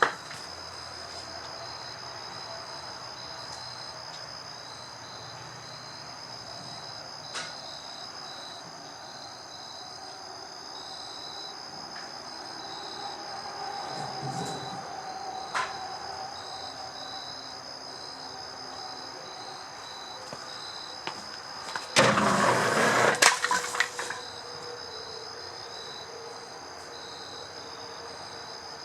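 Crickets chirping steadily in the background. About three-quarters of the way through, a loud clatter of about two seconds: firewood sliding and tumbling down a culvert-pipe chute. A few faint single knocks come earlier.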